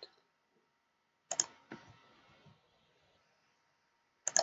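A few sharp clicks from a computer's keys and mouse buttons: two about a second and a half in, then a quick cluster near the end.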